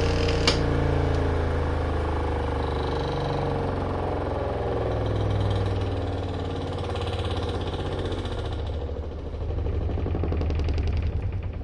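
Spin-dryer tub of a compact twin-tub washing machine spinning with a steady motor hum. About nine seconds in, a rapid, even pulsing joins it: the noise the machine always makes when the load goes off balance, which the owner puts down to worn-out shock absorbers.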